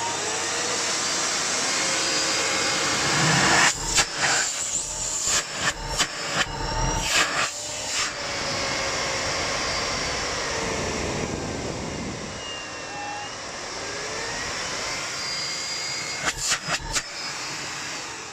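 Miele Complete C3 vacuum cleaner running, with a whining whistle that shifts in pitch, which the owner puts down to a worn HEPA filter that no longer seals. Sharp knocks and clatters come in two clusters, from about four to eight seconds in and again near the end.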